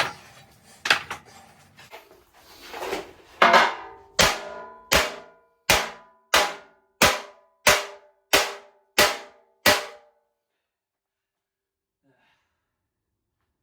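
Hammer striking the steel frame of an old tractor, a few loose knocks and then a steady run of about nine hard blows, each ringing metallically, to drive out a cut section of the chassis.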